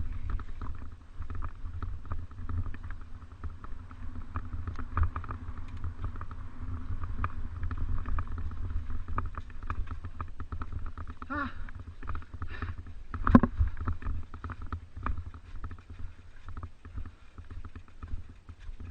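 Mountain bike rolling over rough ground: a constant low rumble of wind and terrain buffeting the mounted microphone, under a steady patter of small rattles and clicks from the bike. A short pitched squeal comes about eleven seconds in, then a single loud knock a couple of seconds later.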